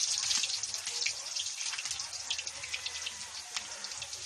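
Onion and garlic sizzling in hot oil in a wok, a steady hiss with many small crackles that slowly eases off.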